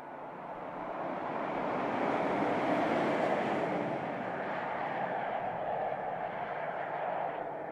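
A BMW X6 driving past: a rushing tyre-and-engine noise that swells over about two seconds, holds, then begins to fade near the end.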